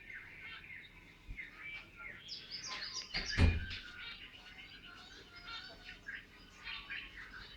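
Zebra finches chirping continuously in quick, short calls, with one loud thump about three and a half seconds in.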